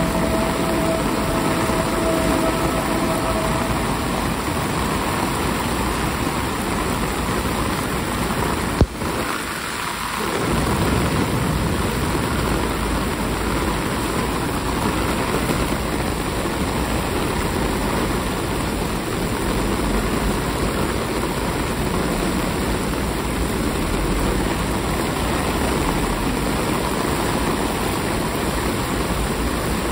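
Heavy rain pouring down in a steady, even hiss. A single sharp click about nine seconds in is followed by a brief dip in the sound.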